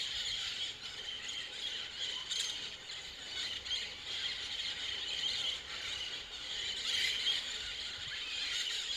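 A large flock of green parrots calling all at once: a continuous, loud chorus of overlapping high-pitched squawks and screeches while they feed in palm trees.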